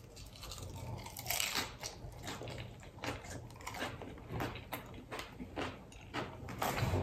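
A person biting into and chewing a crisp hard-shell taco. The fried corn shell gives a run of irregular crunches, about two a second.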